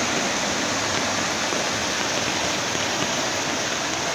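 Bagmati river in flood, its swollen water rushing past in a steady, unbroken roar of noise.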